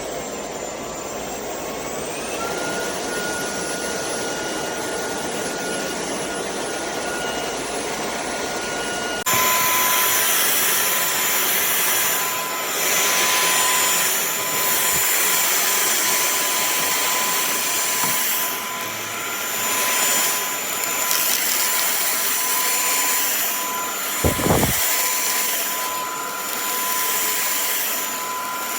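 KCLASO cordless stick vacuum's motor running with a steady whine. Its pitch climbs about two seconds in, and about nine seconds in it becomes suddenly louder, then rises and falls a little. A brief knock comes near the end.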